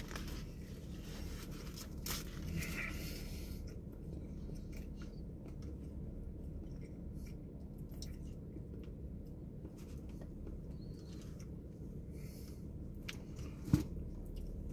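A person chewing a bite of a crispy fried-chicken sandwich, with faint crunches and crackles over a steady low hum, a louder crackle about two seconds in and a sharp click near the end.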